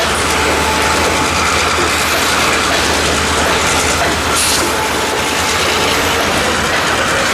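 Freight train of mixed railroad cars rolling past, steel wheels clattering over rail joints and trackwork in a steady, unbroken run.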